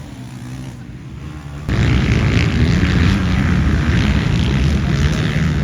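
Motocross dirt-bike engines running hard during a race. The sound jumps suddenly louder a little under two seconds in, with a rushing noise over the engine.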